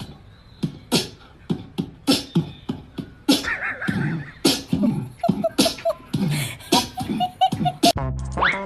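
Beatbox-style vocal percussion: sharp clicks and snaps about twice a second, with short vocal sounds and brief repeated notes in the middle.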